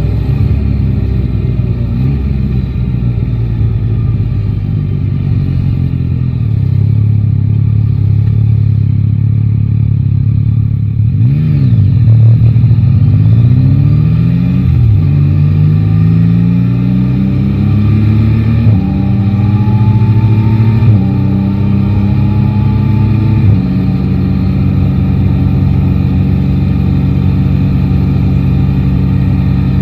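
Yamaha Tracer 9 GT motorcycle's three-cylinder engine, heard from the rider's seat. It runs steadily at first. About a third of the way in, it dips and pulls away, accelerating up through the gears with four upshifts, each a rise in pitch followed by a drop. It then settles into a steady cruise.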